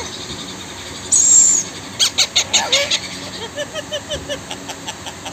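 Blue Indian ringneck parrot calling: a short shrill screech about a second in, then a rapid run of short chattering chirps and clicks for about two and a half seconds.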